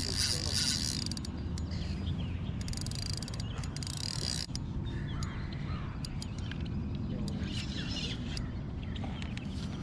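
Fishing reel drag ratcheting out in several short spurts as a big drum takes line beside the kayak, over a steady low rumble of wind and water.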